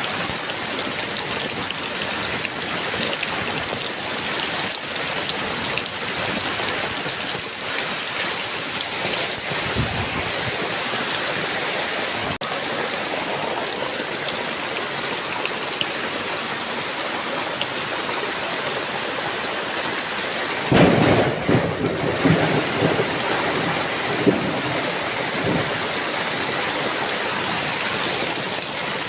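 Heavy rain falling steadily, with a sudden clap of thunder about two-thirds of the way through that rumbles on in a few peaks for several seconds.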